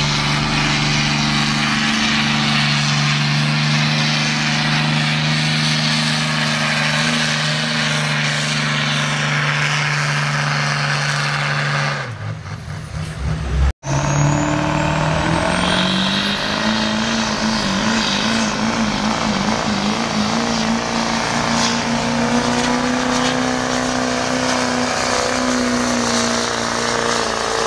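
Diesel pickup truck engine held at high revs under heavy load while pulling a sled, running at a steady pitch. About twelve seconds in, it drops away and the sound cuts out briefly. Then an engine revs up over a couple of seconds and holds steady at high revs again.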